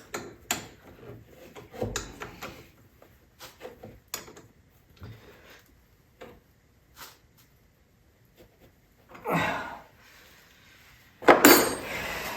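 Metal tools and small parts being handled in a workshop: scattered light clinks and knocks, then two louder rattling scrapes near the end, like a drawer or parts bin being rummaged through.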